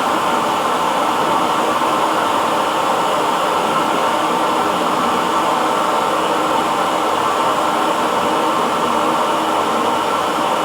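Hair dryer running steadily: an even, unbroken blowing whir with a faint steady hum in it.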